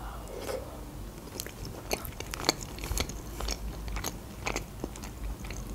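Close-miked chewing of a mouthful of Olivier salad, soft mouth clicks about twice a second.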